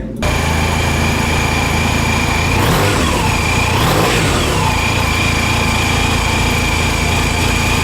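Honda Silver Wing 582 cc parallel-twin scooter engine starting up and idling, then revved twice about three and four seconds in before settling back to idle. A steady high whine runs alongside.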